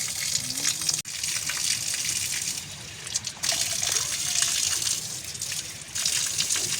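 Water gushing and splashing steadily, swelling and dipping, with a brief break about a second in.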